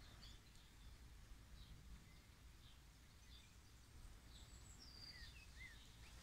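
Near silence, with faint, scattered chirps of distant birds over low background noise.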